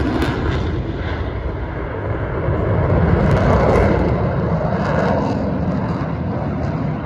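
An aircraft flying past with a loud, noisy roar that swells about three to four seconds in and then slowly fades.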